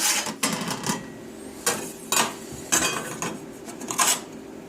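A handful of short metallic clinks and clanks, like sheet metal or tools being handled, spaced out over a few seconds, with a faint steady hum underneath.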